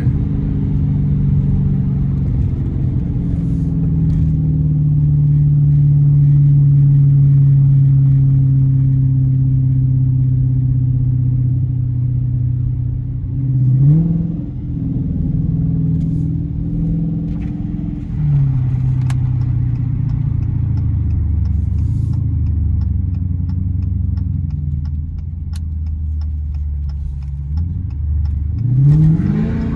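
Straight-piped Dodge Challenger R/T 5.7 L Hemi V8 exhaust running under light throttle. Its pitch climbs and drops sharply about halfway through and again near the end, as the car accelerates and shifts gears.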